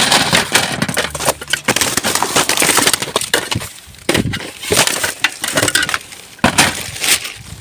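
Rubbish being rummaged through in a dumpster: crunching, crackling and occasional clinks as items are shifted and pulled out, in bursts with short pauses about halfway through and again near the end.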